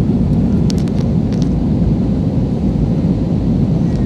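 Steady low rumble of jet engine and airflow noise heard inside an airliner cabin in flight, with a few faint clicks about a second in.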